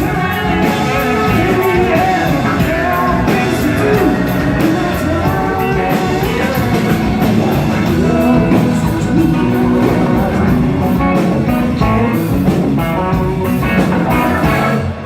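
Live rock band playing with a lead singer, loud and steady, breaking off at the very end.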